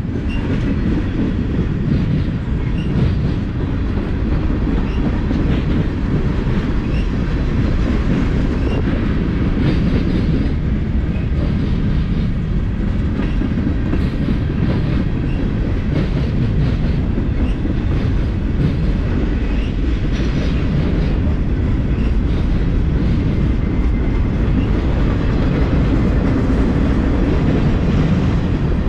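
Mixed freight train rolling past: a loud, steady rumble of freight cars, with the wheels clicking over the rails.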